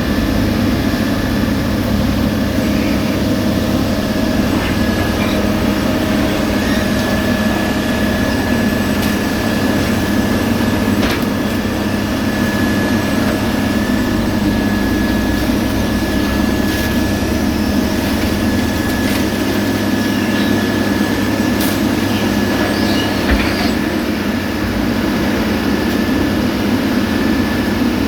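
Heavy road-paving machinery running steadily at a diesel drone, with a thin steady whine high above it and a few faint clicks and knocks.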